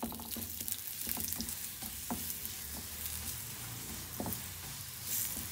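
Besan roti frying in ghee in a nonstick pan: a steady sizzle, with a few light scrapes and taps of a spatula as the roti is moved around. The hiss swells briefly near the end.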